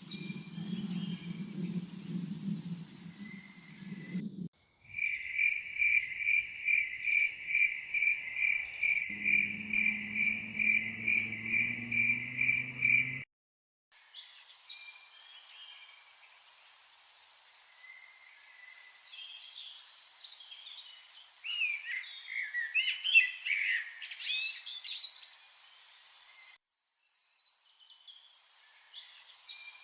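Countryside ambience in several cut sections. A chirping insect, cricket-like, pulses in a steady loud rhythm of about two to three chirps a second, with a low hum joining partway. After a short break, birds chirp and twitter.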